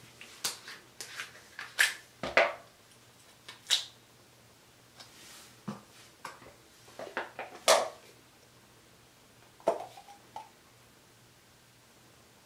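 Irregular handling noises in a small room: a dozen or so short clicks, taps and knocks of things being picked up and set down, with one duller thud about two seconds in.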